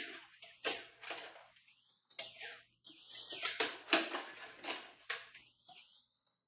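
Handling noise from the portable air conditioner's ribbed plastic exhaust hose as a connector is fitted onto its end: a run of irregular scraping, rustling plastic sounds with a few clicks, stopping and starting.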